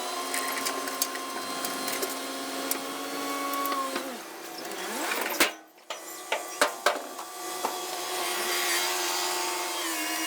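John Deere 4052R compact tractor running steadily with a machine whine while working a box blade. Its pitch drops as the engine slows about four seconds in, then it steadies again, with a few sharp knocks and clicks.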